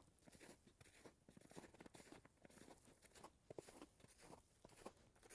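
Faint footsteps crunching and rustling underfoot: irregular small crackles and scuffs.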